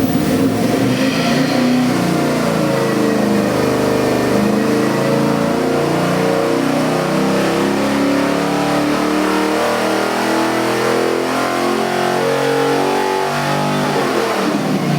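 Chevy LS 441-cubic-inch V8 running on an engine dyno, its note stepping up and down as engine speed changes, then dropping off just before the end.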